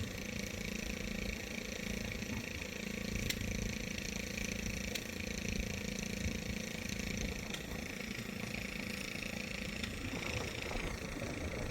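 An engine running steadily at a constant speed, with a couple of faint ticks.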